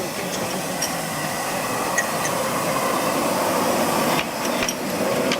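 Miniature railway train running: a steady rumble with scattered light clicks and knocks, growing busier about four seconds in.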